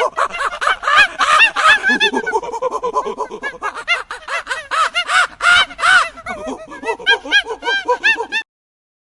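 A group of animals calling over one another in a dense chorus of short calls that rise and fall in pitch, several a second; it cuts off suddenly near the end.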